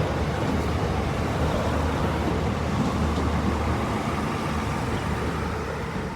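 Northern Ireland Railways Class 3000 diesel multiple unit running at the level crossing: a steady rumble with a low engine hum, easing slightly near the end.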